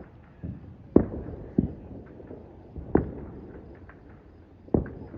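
Fireworks going off across the city: four sharp bangs, about a second in, half a second later, at three seconds and near the end, the first the loudest, with fainter pops between them.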